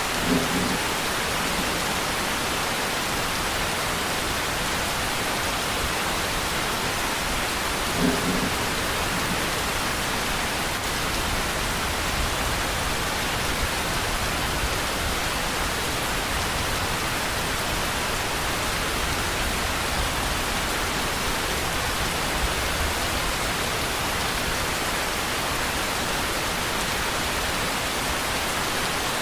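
Steady heavy rain, an even hiss, with two brief low thuds, one right at the start and one about eight seconds in.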